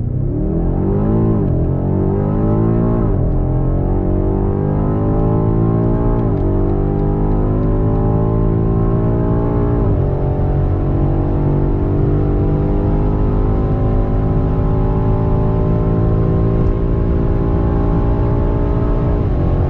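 Twin-turbo V8 SUV engine under full-throttle acceleration, rising in pitch through the gears with quick automatic upshifts: short gears early, then longer and longer pulls, the last shift near the end.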